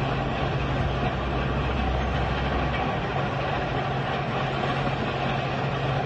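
A heavy bulldozer's diesel engine running steadily, with a constant low hum under a dense rumbling, grinding noise; the deepest part of the hum drops away about halfway through.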